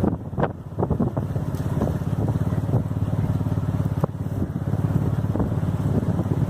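An engine running steadily as a low, fast-pulsing rumble, with irregular sharper knocks over it.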